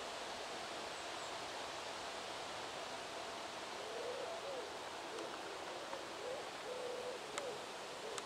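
A bird giving low, wavering calls over and over, starting about halfway through, over a steady hiss of outdoor background noise.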